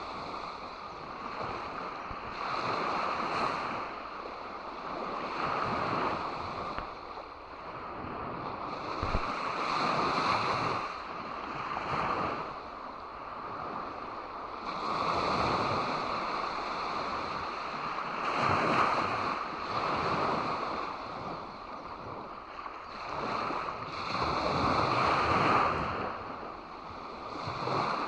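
Sea waves breaking and washing up on the shore, swelling and falling back every few seconds in an uneven rhythm.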